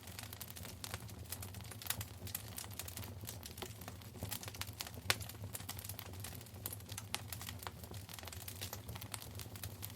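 Wood fire in a fireplace crackling: frequent irregular sharp pops and snaps over a low steady rumble, with louder pops about two and five seconds in.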